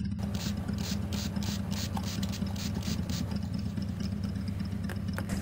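Electric random orbital finishing sander running steadily with a low hum. For the first three seconds a quick even run of short hissing strokes, about four a second, sounds over it.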